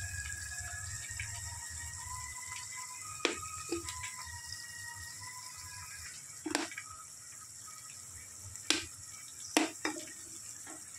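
Onions, green chillies and curry leaves sizzling in hot oil in an aluminium pan, a steady hiss, with about five sharp knocks in the second half.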